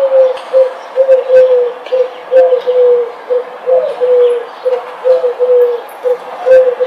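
A bird calling over and over in low hooting notes, each pair a short note followed by a longer one that falls slightly, about two notes a second.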